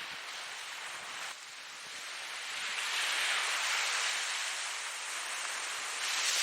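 Ocean surf washing in: a steady hiss of breaking water that swells to a peak a few seconds in and surges again near the end.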